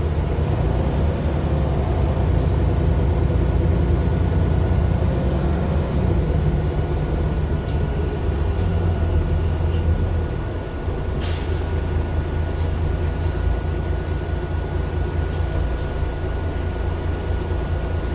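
Mercedes-Benz Citaro LE city bus's Daimler OM 457 hLA six-cylinder diesel running under load, heard from inside the bus; about ten seconds in the engine eases off and drops in level, followed by a short hiss of air.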